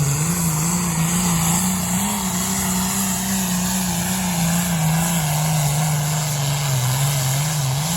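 Engine of a pulling vehicle running hard under steady load down the pull track, its loud note holding roughly level with small wavers in pitch.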